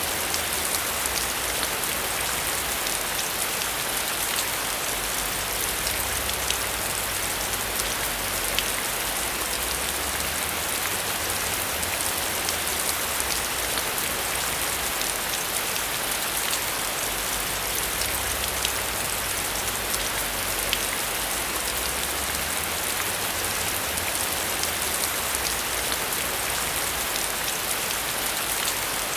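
Heavy rain falling steadily: a dense, even hiss dotted with many sharp ticks of individual drops.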